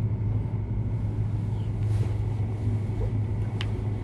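Steady low hum with rumble beneath it, and a single faint click about three and a half seconds in.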